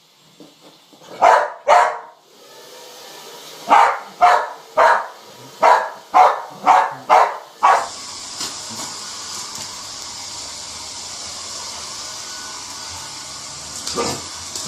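A dog barking: two barks, then after a short pause a run of about eight barks in quick succession. Then a hair dryer blows steadily.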